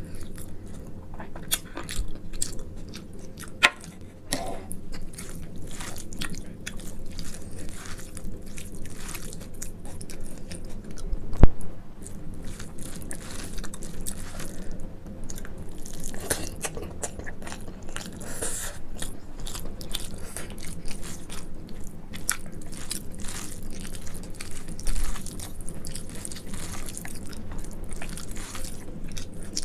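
Close-miked chewing and biting of rice mixed with mashed brinjal bhorta: many small wet clicks and smacks over a steady low hum. A single sharp click about eleven seconds in is the loudest sound.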